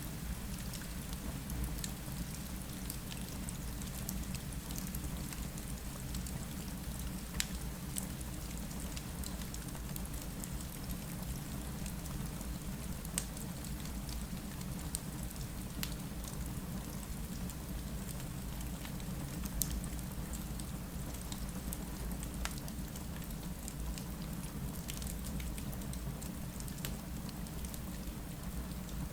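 Steady rain with a low rumble underneath, mixed with a fireplace's scattered sharp crackles.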